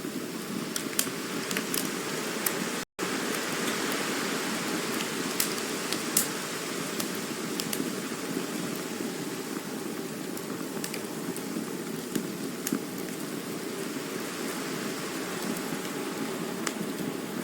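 Campfire burning: a steady hiss of the flames with frequent sharp crackles and pops from the burning wood. The sound cuts out for an instant about three seconds in.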